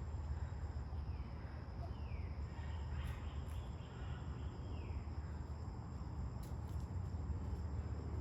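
Outdoor ambience: a steady high insect trill, a few short falling bird calls, and a low rumble of wind on the microphone.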